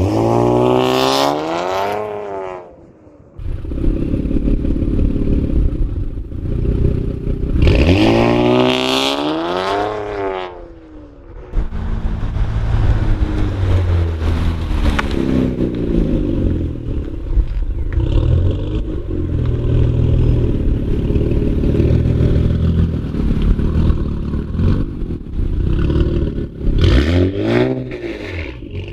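Infiniti Q50/Q60 twin-turbo 3.0-litre V6 through an AAM 3-inch true-dual catback exhaust, accelerating past in fly-bys. The exhaust note rises and then falls twice in the first ten seconds and once more near the end, with a low engine rumble in between.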